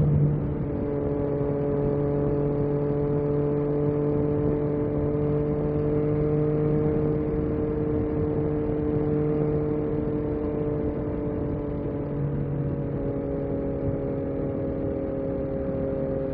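A Yamaha MT-09 SP's three-cylinder engine running at steady, moderate revs while riding along. The pitch holds nearly level the whole time, with slight drifts.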